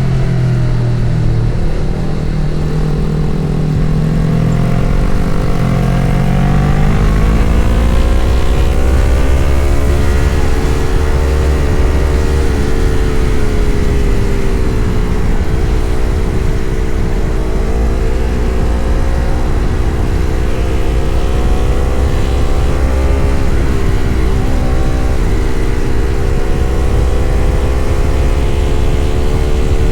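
Yamaha MT-03 motorcycle's parallel-twin engine running on the road, rising in pitch through the first several seconds as it accelerates, then holding a fairly steady speed with a few brief dips in pitch. A steady low rumble runs underneath.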